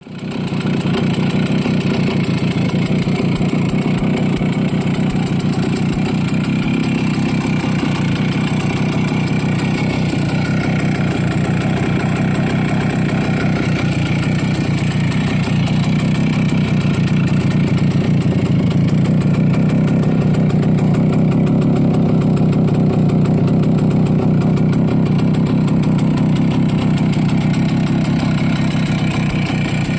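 Voskhod 3M motorcycle's 175 cc single-cylinder two-stroke engine idling steadily.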